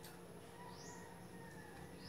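Faint bird chirps: short, high, rising notes about once a second, over a low steady hum.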